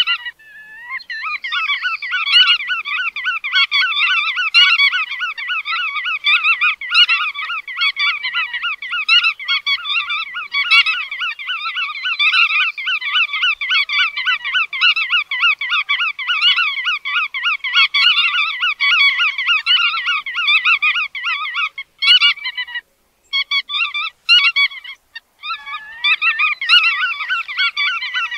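Bar-tailed godwits calling: a dense, rapid chatter of repeated call notes, almost unbroken, with a few short breaks near the end.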